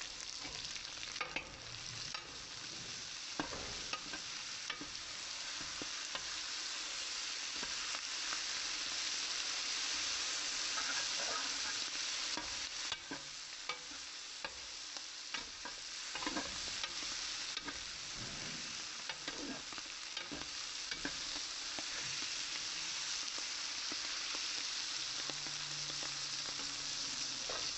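Onions, tomatoes, cashews and herbs sizzling steadily as they fry in oil in an aluminium pressure cooker, with a metal spoon scraping and clicking against the pot as they are stirred.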